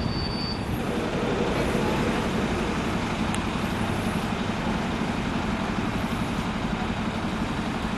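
Heavy diesel vehicle engine running steadily with a low rhythmic pulse. A high metallic squeal dies away in the first half second.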